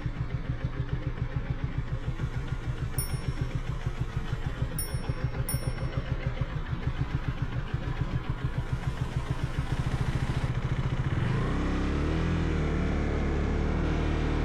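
KTM 390 Duke's single-cylinder engine running at low revs with a steady pulsing beat, then revving up about eleven seconds in as the motorcycle pulls away.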